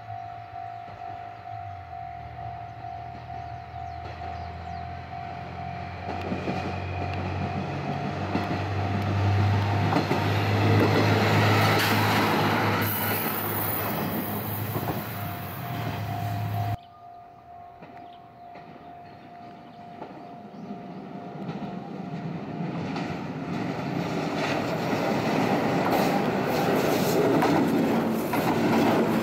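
A single-car diesel railcar's engine running as it draws near, building to a loud rumble. After a sudden cut, an electric train rolls past, its wheel noise on the track growing louder.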